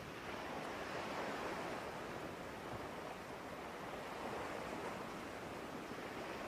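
Soft background ambience of gentle ocean surf: a steady rushing hiss that swells and eases slowly.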